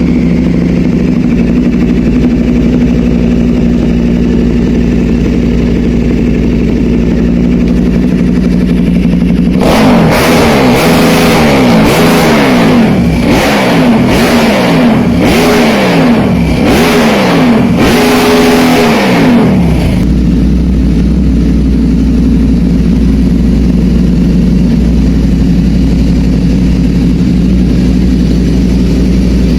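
KTM 1290 V-twin engine, swapped into a Yamaha Raptor quad, idling steadily, then blipped hard again and again for about ten seconds, the revs rising and falling with each blip, before settling back to idle.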